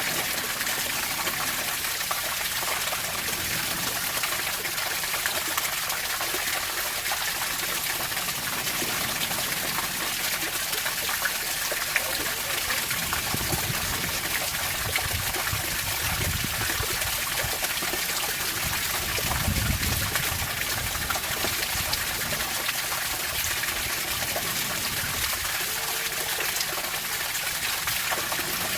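Water running and splashing steadily, a constant rushing hiss; a low rumble swells in and out around the middle.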